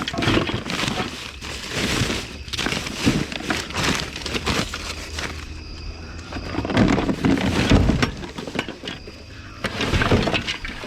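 Trash being rummaged through in a dumpster: irregular crunching, rustling and clattering of bags and loose items being moved and handled, with a louder stretch about seven seconds in.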